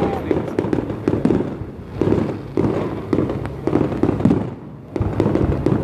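Fireworks display: a rapid, continuous series of bangs and crackling. There is a short lull about four and a half seconds in, then the bursts resume.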